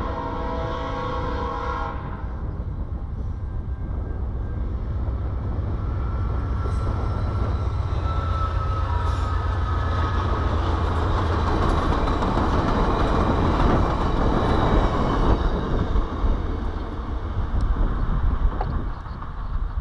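Multi-note horn of a VIA Rail GE P42DC diesel locomotive, ending about two seconds in. It is followed by the locomotive's diesel engine and its passenger cars rumbling past on the rails. The sound builds to its loudest past the middle, then eases off.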